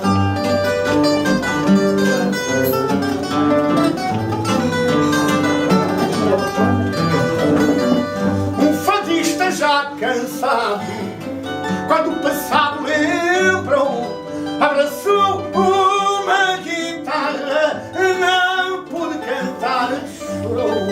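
Fado accompaniment: a Portuguese guitar plays a plucked melody over the chords of a fado viola (classical guitar), as an instrumental introduction.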